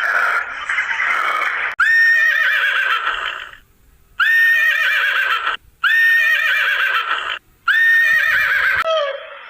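Horse whinnying four times in a row, each a high, quavering call that trails off lower at the end, after a rough, breathy noise in the first second and a half.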